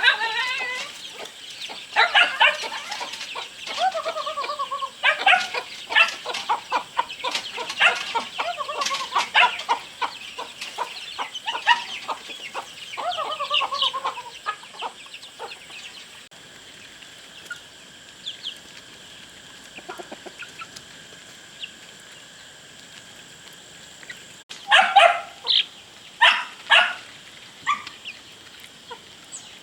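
Chickens clucking, with several drawn-out calls that fall in pitch in the first half and a quick run of sharp, loud calls near the end.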